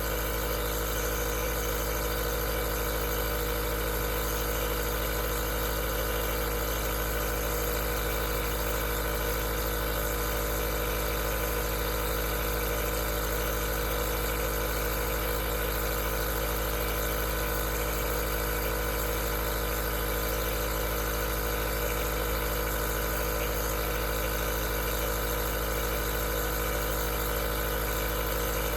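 Aerosol nebulizer running steadily: a constant machine hum made of several steady tones with a hiss over it, never changing.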